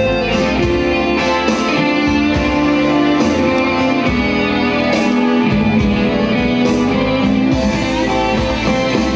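Guitar playing the instrumental introduction to a slow blues song, with a steady bass line under plucked notes.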